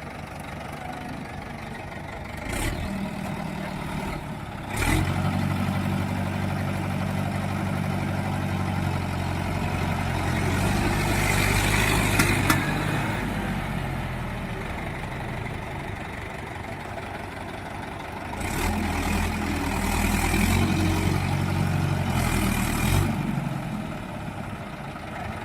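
Tractor diesel engine running and revving hard in two long spells, as a pull to drag a tractor out of mud. The first spell runs from a few seconds in to about the middle, with the pitch rising and falling; the second comes near the end and cuts back suddenly.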